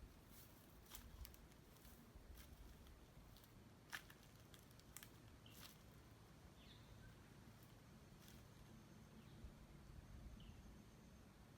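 Faint outdoor ambience: scattered light clicks and a few short, high, falling bird chirps, with a faint low hum in the second half.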